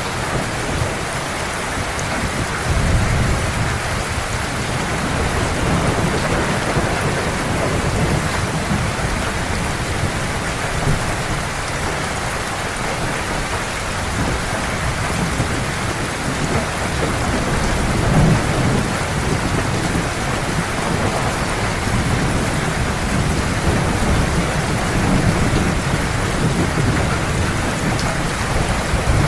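Heavy rain falling steadily, with low rumbles of thunder that swell and fade a few times.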